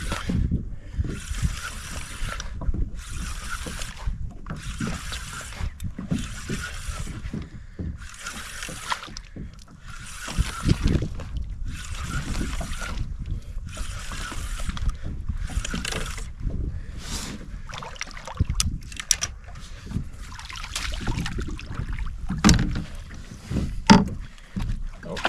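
A fishing reel being cranked in steady strokes, roughly one a second with short pauses between, as a hooked fish is reeled up from the bottom, over a low wind and water rumble. In the last third come a few sharp knocks and one loud thump.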